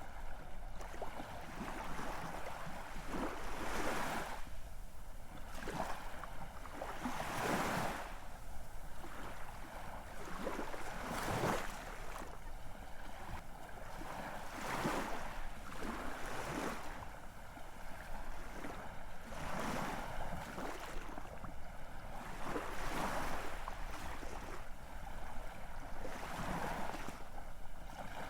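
Ocean waves breaking and washing in, a steady rush of surf that swells every three to four seconds.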